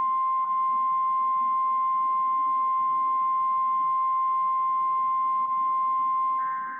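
NOAA Weather Radio 1050 Hz warning alarm tone: one steady, loud, high-pitched tone held for about six and a half seconds over a faint hiss, the signal that a warning message follows. Near the end it fades as a short burst of warbling digital header data tones starts.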